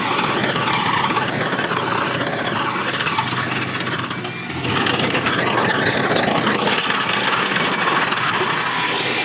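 Heavy earthmoving machinery engine running under load, dipping briefly just after four seconds in, then louder again.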